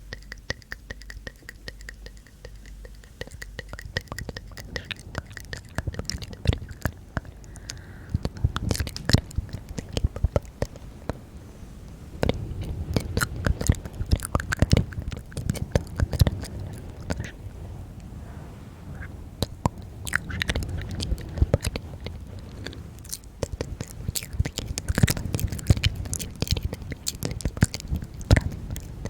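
ASMR mouth sounds close to the microphone: a dense, irregular run of wet clicks and smacks. A low rumble joins underneath from about four seconds in.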